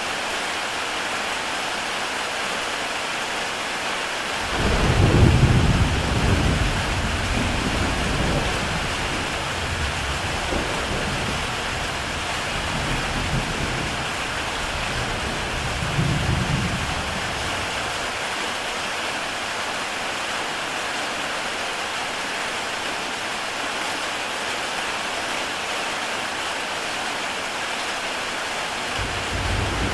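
Heavy rain falling steadily on a tile roof, an even hiss. About four seconds in, a low rumble of thunder swells up and rolls on, swelling again briefly later before dying away.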